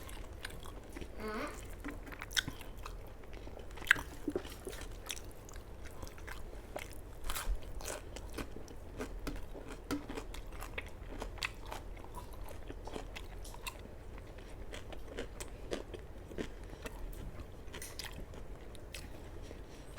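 Close-up sounds of a person eating rice with chicken curry: chewing, with scattered wet mouth clicks, smacks and crunches.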